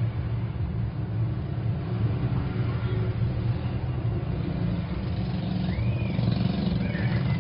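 Steady low rumble of background motor traffic, with a cat meowing once about six seconds in.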